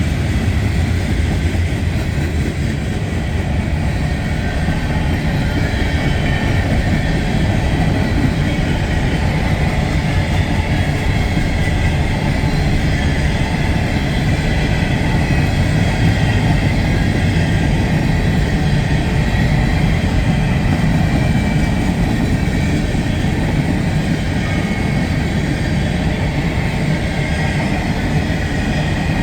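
Freight train rolling past: a steady, loud rumble of wheels on rail.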